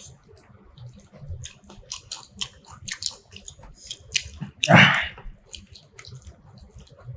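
Close-up wet chewing and mouth clicks of someone eating fish curry with rice, with one louder, longer wet sound about five seconds in.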